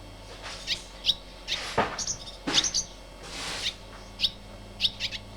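Small birds chirping: short, high chirps repeated every half second or so, with two brief whooshing rustles in between.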